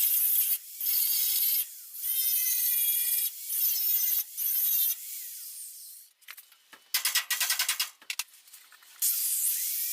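Angle grinder grinding rust off steel car body panels in short bursts that stop and start about once a second, a high-pitched grinding whine. About seven seconds in it breaks into rapid chattering pulses for roughly a second.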